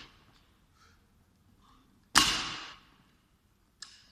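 Loaded barbell landing on the gym floor about two seconds in: one sharp bang with a short ringing decay. The fading tail of an earlier landing is heard at the start.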